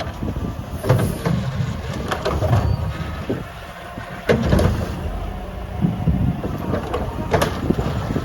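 Diesel engine of a Mack LR garbage truck with a McNeilus Meridian body running, with wind buffeting the microphone and a few metallic knocks and clanks, one louder about four seconds in.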